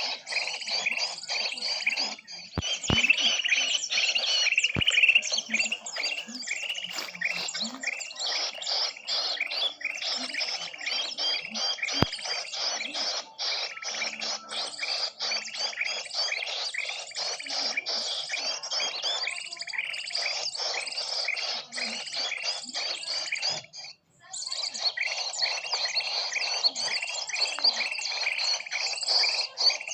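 Bird-lure recording of small birds chirping densely and rapidly, many short calls overlapping, with a brief break a little before the end.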